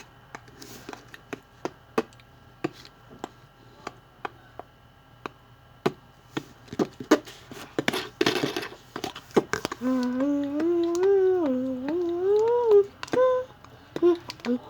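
Slime being worked out of its container by hand, making a run of sharp sticky clicks and pops with a short squelchy rush about eight seconds in. From about ten seconds a person hums a short wavering tune for some three seconds.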